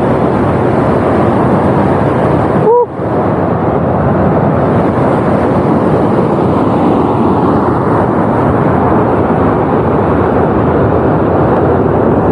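Waterfall rushing: a loud, steady roar of falling water, broken off briefly about three seconds in.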